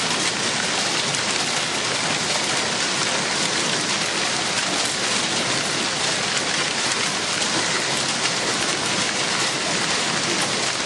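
Heavy rain falling steadily on surfaces, a dense, even downpour at constant strength.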